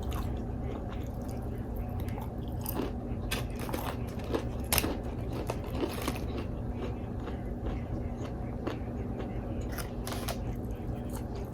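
Close-miked eating of Wingstop food: irregular crunchy bites and wet chewing, with the loudest bite about halfway through, over a steady low hum.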